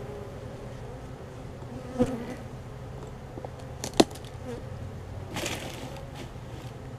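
Honeybees buzzing steadily around their opened nest, with a sharp knock about four seconds in and a softer one near two seconds.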